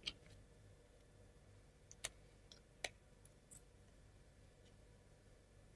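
Near silence broken by a few faint, brief clicks of small plywood model parts being handled: one at the start, one about two seconds in and one just under a second later.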